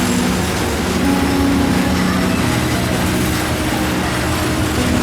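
Steady running noise of a vehicle in motion, an even rush with a low droning hum that shifts pitch a few times.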